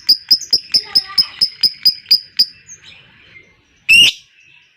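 Lovebird giving its chattering ngekek call: a fast run of sharp, high chirps, about five a second, slowing and stopping about two and a half seconds in. Near the end comes one loud, harsh call.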